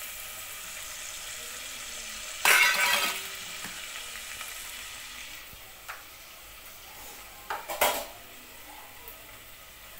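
Steady sizzle of a curry frying in a steel pot on a gas stove. A spoon stirs and scrapes loudly against the pot about two and a half seconds in, and again with a few clinks near the end, as garam masala is spooned in.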